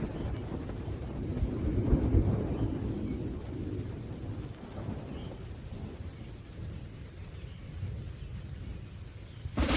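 Rolling thunder rumbling low over steady rain. The thunder swells about two seconds in and slowly dies away, then a sharp, loud thunderclap cracks at the very end.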